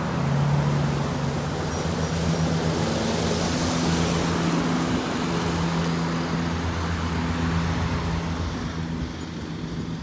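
A motor vehicle's engine running with a steady low hum over road noise.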